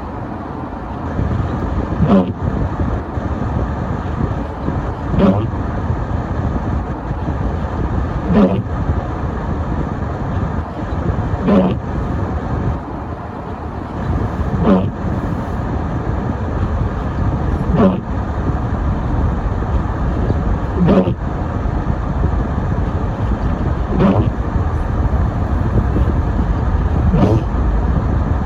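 Car driving on a snowy road with steady engine and road noise. A short knock repeats about every three seconds.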